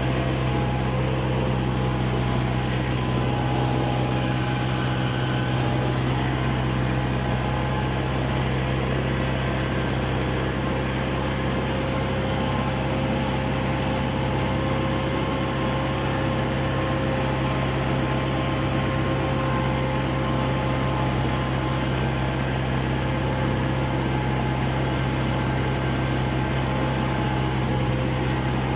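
Tractor engine running at a steady speed, a constant low drone that does not change throughout.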